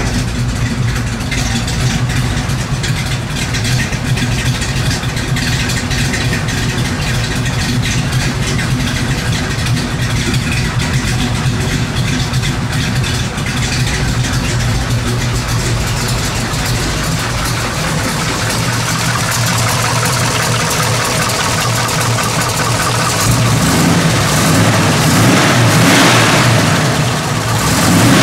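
AMC 360 V8 engine, built to about 450 hp, running at a steady idle. Over the last few seconds its revs and loudness rise.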